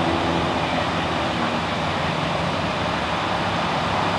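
Excavator's diesel engine running over the steady rush of flowing floodwater; the engine note fades down about a second and a half in, leaving mostly the rush of water.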